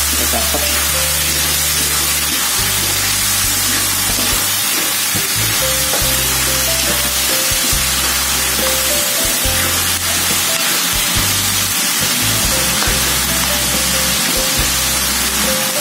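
Chicken pieces sizzling in a hot wok as they are stir-fried with a metal spatula, an even frying hiss. Background music with a bass line that changes note every second or two plays over it.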